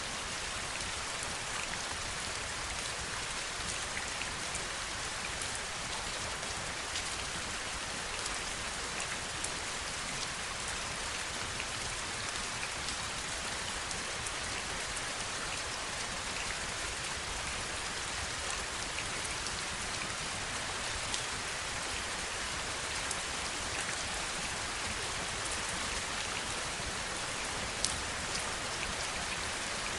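Heavy rain falling steadily, a dense even hiss of rain with scattered sharper drop ticks standing out.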